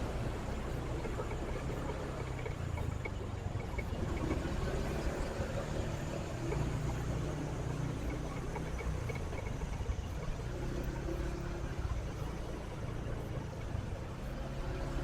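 Motorcycle engine running at low speed in traffic, its low hum shifting slightly in pitch, under steady road and wind noise.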